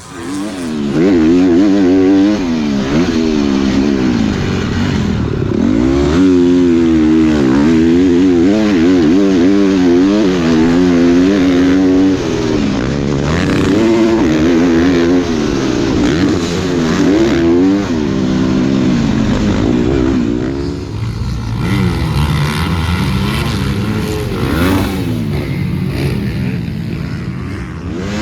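Dirt bike engine revving up and down repeatedly as it is ridden around a motocross track, its pitch climbing and dropping with each throttle and gear change. Near the end the engine eases off for a few seconds and a steady hiss comes up.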